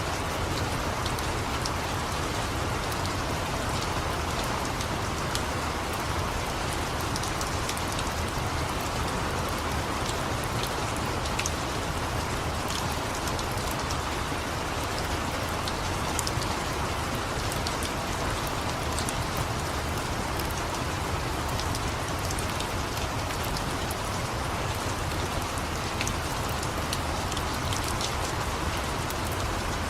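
Steady rain falling, an even hiss with many small scattered crackles and drop ticks running through it.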